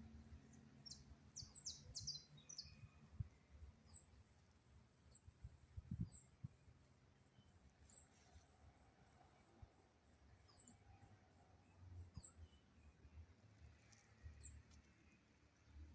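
Faint, high-pitched bird chirps: short downward-flicking notes every second or two, with a quick burst of several chirps in the first few seconds.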